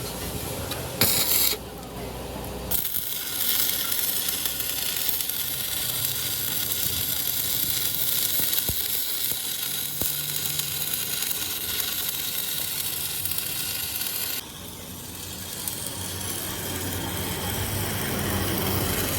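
A steady, loud hiss with some mechanical clatter, broken by abrupt cuts about a second and a half in, near three seconds in, and again about fourteen seconds in.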